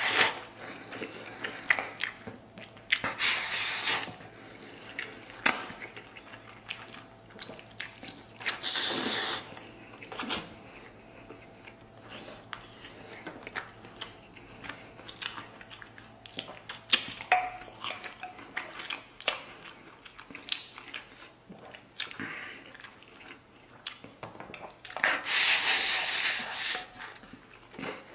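Close-miked eating of braised pork intestine and glass noodles: wet chewing and lip smacking, broken by several slurps about a second long, the longest near the end.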